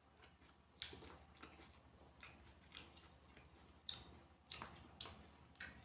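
Faint, close-miked eating sounds: a person chewing a meal of rice, fried salted fish and raw vegetables, with irregular crisp crunches and mouth clicks about one or two a second.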